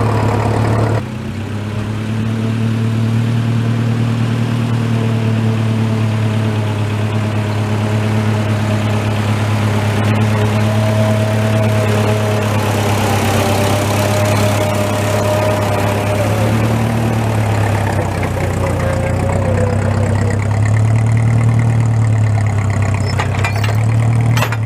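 Old Massey tractor's engine running steadily in low gear while pulling a heavy load, its speed rising and dipping slightly now and then.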